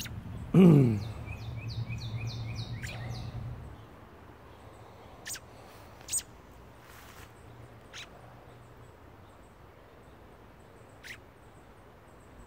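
A bird calling a quick run of about seven short, high, downslurred notes in the first few seconds, over a low steady hum that stops about four seconds in. Just before the notes there is a loud, short sound falling in pitch, and later come a few sharp clicks.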